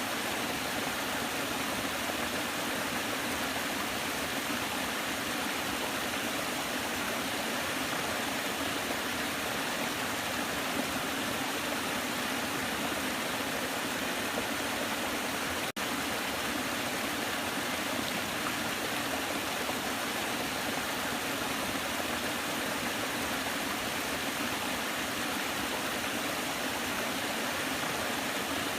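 Waterfall: a steady, even rush of falling water, with a split-second dropout about halfway through.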